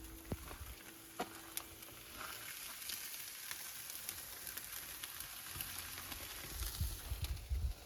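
Rain falling: a steady fine hiss with scattered sharp drop ticks. A low rumble comes and goes near the end.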